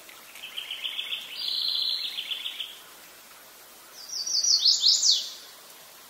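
A songbird singing: a rapid trill of quickly repeated notes lasting about two and a half seconds, then, after a short pause, a louder phrase of quick high notes that each slide downward. A steady hiss runs underneath.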